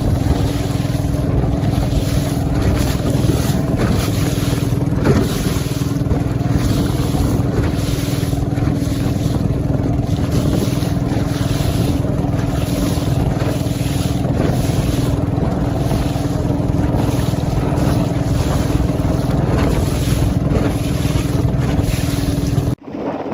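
An engine running steadily at an even pitch, with wind buffeting the microphone. It cuts off suddenly near the end.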